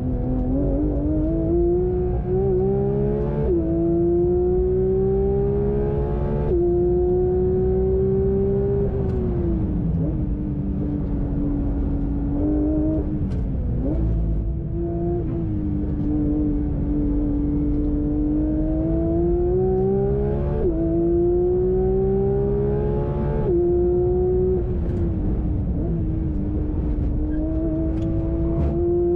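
Porsche 911 GT3 RS's naturally aspirated flat-six under hard track driving. The engine note climbs through the revs and drops sharply at quick upshifts, four times. Twice it falls away under braking, with short rises as it is blipped on downshifts.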